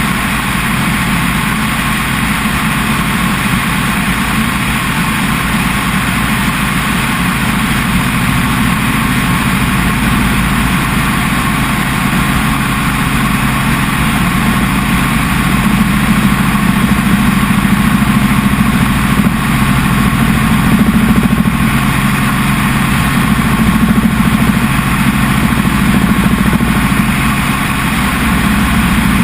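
Helicopter engine and rotor noise, a loud steady drone that swells slightly in the second half.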